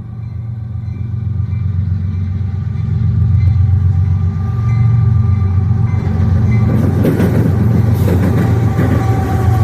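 Diesel freight locomotives approaching, their low engine drone growing steadily louder, then the rattle and clatter of wheels on rail joining in about seven seconds in as the train draws alongside.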